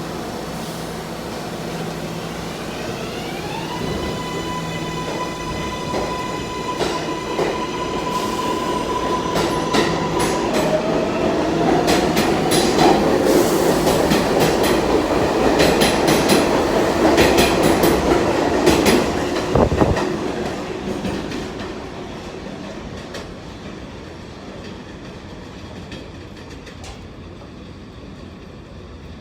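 R188 subway train accelerating out of a station. Its electric propulsion gives a whine of several tones that rises in pitch over the first few seconds and then holds steady. The cars then pass, loud, with wheels clicking over rail joints, and the sound drops off after about 20 seconds and fades.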